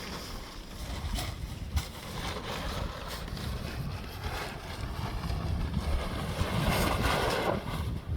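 Strong wind buffeting the microphone: a gusty low rumble throughout, with a rushing hiss that swells from about four seconds in and eases just before the end.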